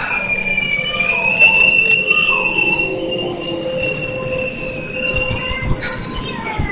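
Electric commuter train pulling into a station and slowing to a stop, with a high multi-tone squeal from its braking wheels over a low rolling rumble.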